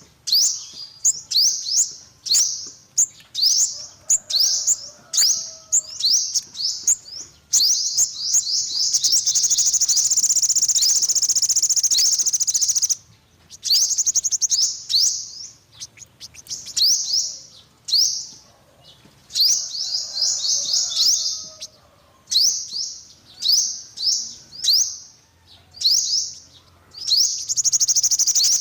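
Olive-backed (yellow-bellied) sunbird calling: a run of sharp, high, downward-sweeping chips about two a second, broken by a long, fast trill about 8 seconds in and again near the end.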